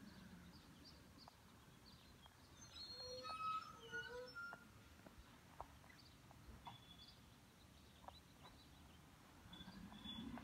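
Faint bird chirps over quiet outdoor background, with a short cluster of louder chirping notes about three to four seconds in.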